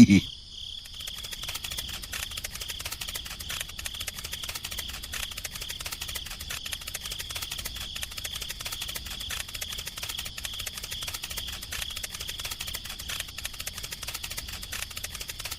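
Insects, likely crickets, chirping without a break: a high, steady trill made of very rapid pulses.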